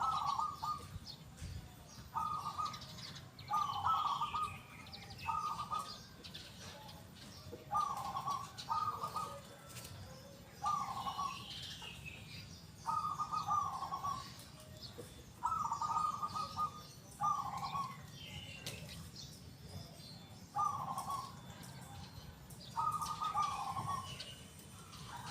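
Local zebra dove (perkutut) cooing. It sings its loud, clear song in short groups of two or three coos every couple of seconds, while other small birds chirp faintly in the background.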